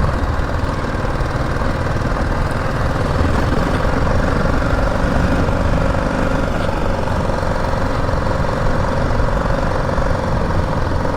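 BMW G 310 GS single-cylinder motorcycle engine running steadily while riding, a constant low rumble with road and wind noise.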